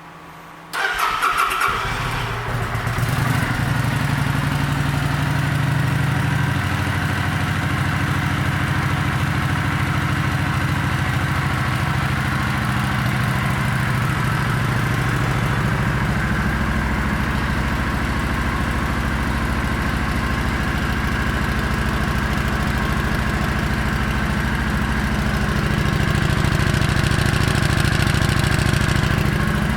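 Kawasaki Vulcan 900 Custom's V-twin engine cranked on the electric starter about a second in, catching and settling into a steady idle. The idle gets a little louder near the end.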